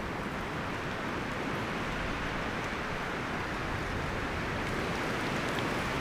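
Wind blowing through forest trees, a steady rustle of leaves and branches that slowly grows a little louder.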